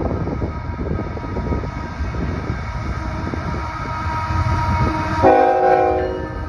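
Diesel freight locomotive passing close by, its engine and wheels giving a steady low rumble. About five seconds in, a short blast of its air horn chord, under a second long.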